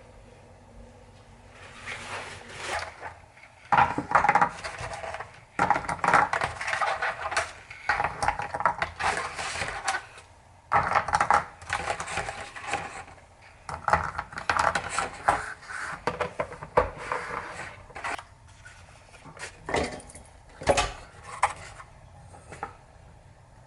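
Kitchen cooking sounds: dishes, pots and utensils being handled and clattered in irregular bursts.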